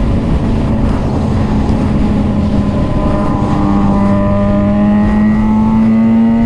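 Suzuki GSX-R600 sport bike's inline-four engine running while riding, over a dense rush of wind noise. The engine note breaks off just at the start, then comes back and climbs slowly from about halfway through as the bike gathers speed.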